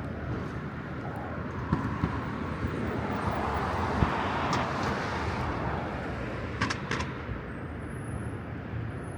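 A road vehicle passing on a city street, its tyre and engine noise swelling over a few seconds and then fading, over steady urban background noise. Two sharp clicks come shortly after it passes.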